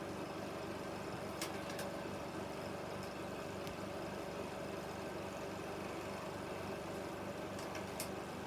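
16mm film projector running, a steady mechanical hum with a fast, even flutter. There are a few faint clicks: two near the start and one near the end.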